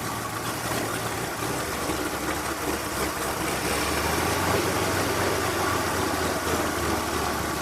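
Race car engine idling at a steady low pitch, with a rough, uneven rumble.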